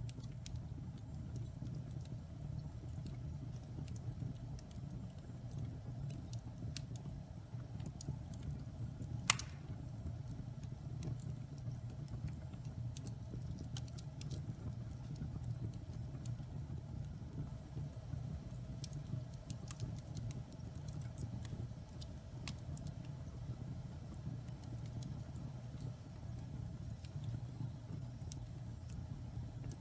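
Wood fire burning in a fireplace, crackling with scattered small pops over a low steady rumble of the flames, and one sharper, louder pop about nine seconds in.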